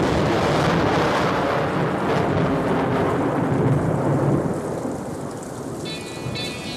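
Recorded thunderstorm, heavy rain hiss with rolling thunder, fading in quickly at the opening of a song. A few seconds later musical notes come in over the rain, near the end.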